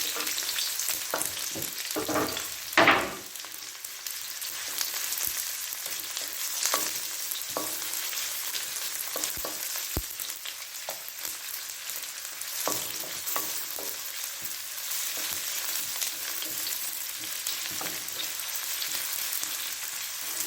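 Garlic and onions frying in olive oil in a pan, sizzling steadily, with scattered clicks and scrapes as they are stirred and a louder scrape about three seconds in.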